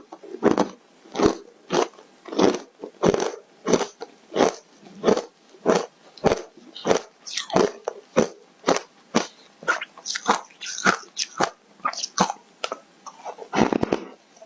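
Foam ice being chewed close to the microphone: steady, sharp crunches at about three every two seconds, with a louder, fuller crunch near the end like a fresh bite.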